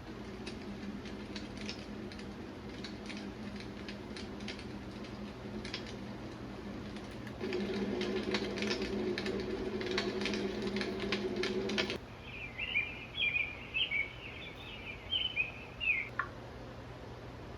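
Preset sounds from an iDealSleep white noise machine coming out of its small speaker, switched abruptly from one track to the next. A steady noisy track with clicks gets louder about seven seconds in and cuts off at twelve seconds. A recorded birdsong track of chirps follows for about four seconds.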